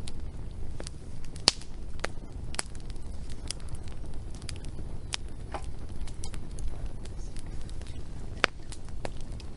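Wood fire crackling: irregular sharp pops and snaps over a low steady rumble, the loudest pop about a second and a half in.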